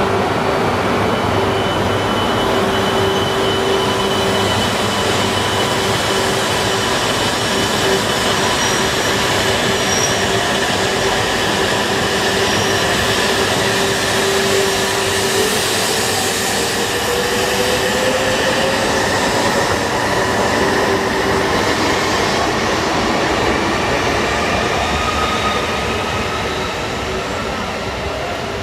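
E2 series Shinkansen pulling out of the station and picking up speed past the platform: steady running noise with a hum, and from about halfway an electric whine rising in pitch as it accelerates. The sound fades near the end as the train draws away.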